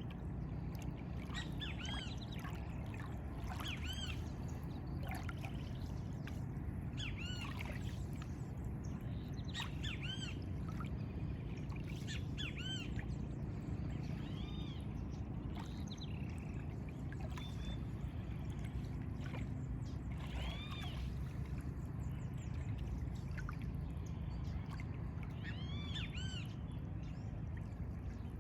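Birds calling in short, arched, slightly harsh notes, scattered irregularly every second or few seconds, over a steady low rumble.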